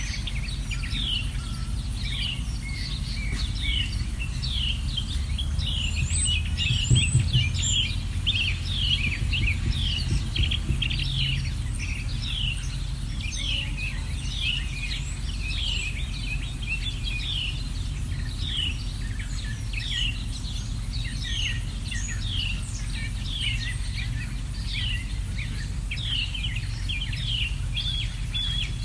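Birds chirping, with short falling chirps repeated over and over, about one or two a second. Underneath runs a steady low rumble that swells briefly about seven seconds in.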